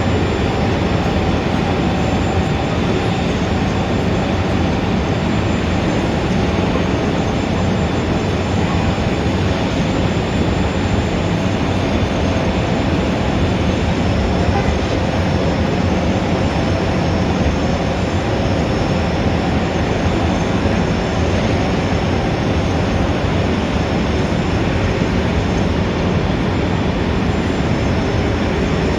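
Steady city street traffic ambience: a dense, even rumble of Times Square traffic with no distinct events standing out.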